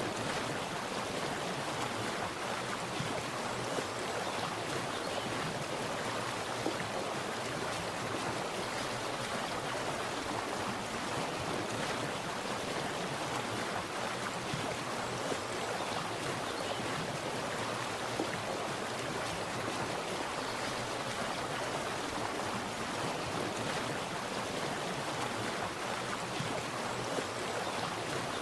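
Water splashing and running steadily, like a small stream or cascade, a constant rushing noise with small irregular splashes.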